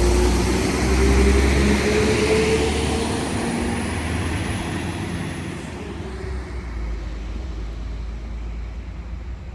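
Class 197 diesel multiple unit pulling away: a low engine rumble with a tone that climbs and then sags as it accelerates, and a high whine that fades out about six seconds in as the train draws away.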